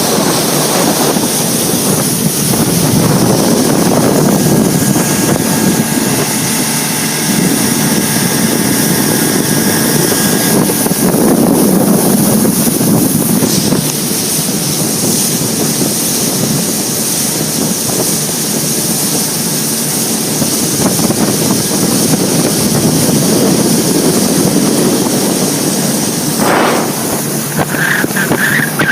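Motorboat under way: steady engine and water rush, with wind buffeting the microphone.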